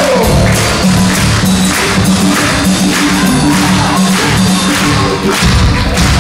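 Instrumental stretch of a live pop song: a repeating bass line under a steady percussive beat.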